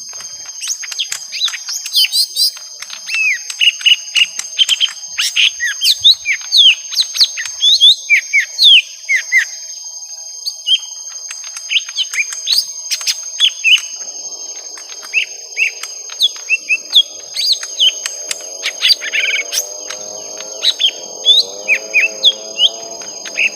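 Young lesser green leafbirds (cucak ijo mini) in a fighting exchange of rapid, sharp chirps and short whistled notes. A steady high whine runs behind them. About halfway through, a lower, wavering, layered sound joins in.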